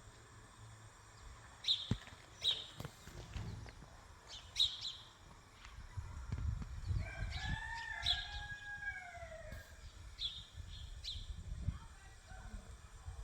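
A rooster crowing once, one long arching call starting about six and a half seconds in, with short high bird chirps scattered around it.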